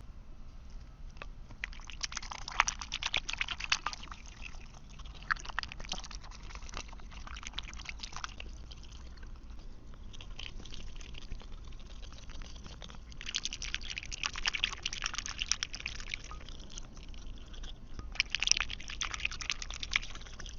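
A duck eating peas, its bill dabbling and clattering in bursts of rapid wet clicks with short pauses between, five or so bursts in all.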